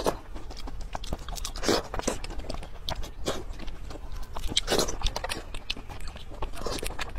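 Close-miked eating sounds: chewing and mouth clicks, with a louder crunchy bite every second or two.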